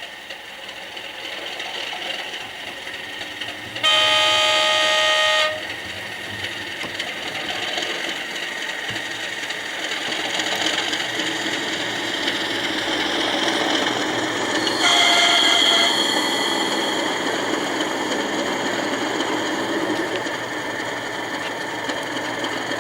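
Sound decoder in an Accurascale Class 37 model diesel locomotive playing its English Electric engine sound through the model's small speaker, the engine note building steadily as the loco is set moving. A loud horn blast of about a second and a half comes about four seconds in, and a second, higher horn note about fifteen seconds in. The decoder now plays its sounds normally after CV63 was lowered from 192 to 150.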